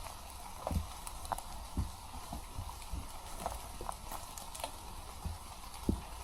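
Footsteps of a hiker walking down a trail: irregular thuds about one or two a second, with small clicks and crackles underfoot.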